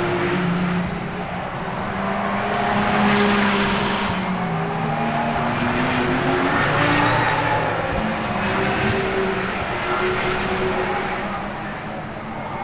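Racing cars passing at speed one after another, their engines rising and falling in pitch as each goes by, loudest about three and seven seconds in.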